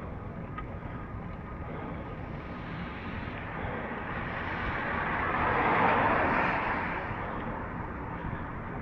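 A vehicle passing over a steady background rush, its tyre hiss on a wet road rising to a peak about six seconds in, then fading.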